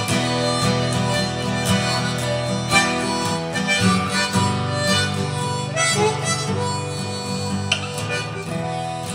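Harmonica playing a melody over strummed acoustic guitar, a bluesy folk soundtrack.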